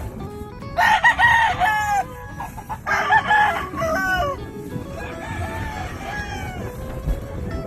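Roosters crowing three times, each crow about a second and a half long and the third fainter, over background music.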